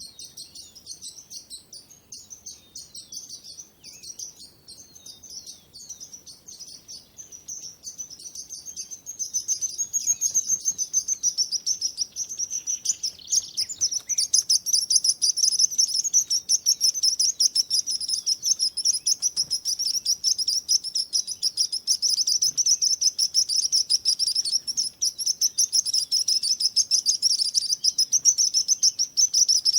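Small birds chirping in a dense, rapid stream of high-pitched notes, growing louder about nine seconds in and again about fourteen seconds in.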